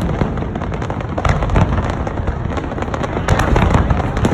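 Fireworks display: shells bursting in quick succession, deep booms mixed with crackling, heaviest about a second in and again near the end.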